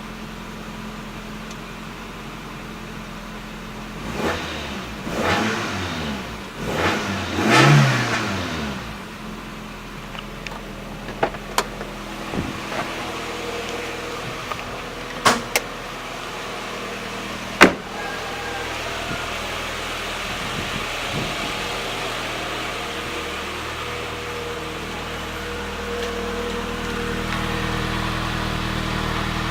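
A 1989 Toyota Corolla EE90's 1.3-litre 2E four-cylinder engine is idling after a cold start. It is blipped up in a few short revs about four to eight seconds in, then drops back to a steady idle. Several sharp clicks come a little later.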